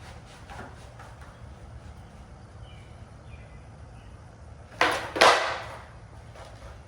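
Skateboard kickflip: two sharp wooden clacks about half a second apart, about five seconds in, the tail popping off the ground and the board slapping back down.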